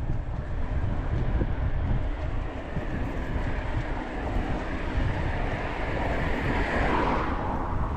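Mountain bike riding noise on a helmet- or bike-mounted action camera: wind rushing over the microphone and a low rumble from the tyres on the ground. The higher hiss eases off near the end.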